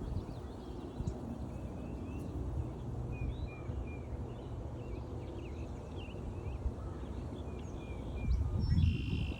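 Several songbirds chirping and singing, many short repeated chirps, with a short buzzy call near the end. Under them, a low rumble and footfalls from walking along the trail, heaviest near the end.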